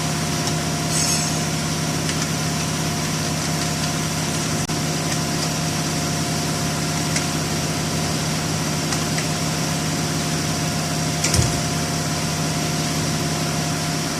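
A steady mechanical hum from a running motor, one low drone with a few fainter higher tones, with a faint click about five seconds in and a short knock about eleven seconds in.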